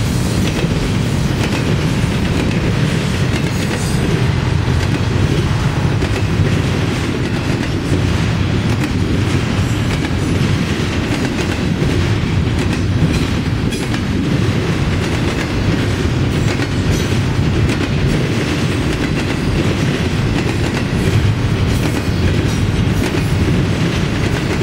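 Double-stack intermodal container train passing: a steady rumble of well-car wheels on the rails, with light clatter throughout.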